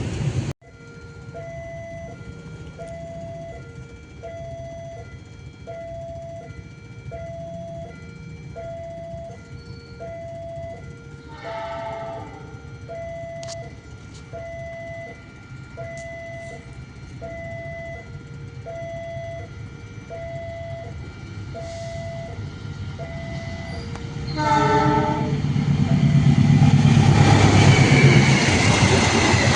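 Railway level-crossing warning alarm ringing a repeating two-tone ding-dong, about one pair a second. A train horn sounds briefly about twelve seconds in and again about twenty-five seconds in. The train then arrives with a loud rising rumble and rush as it passes.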